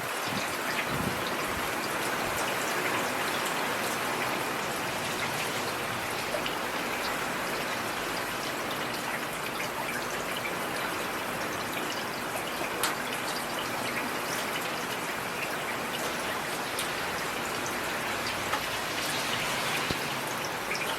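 Heavy rain falling steadily, an even hiss with scattered individual drops ticking through it.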